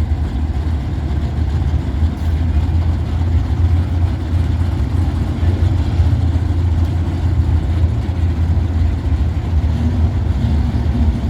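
Chevrolet and Dodge drag cars' engines idling with a steady low rumble, not revving.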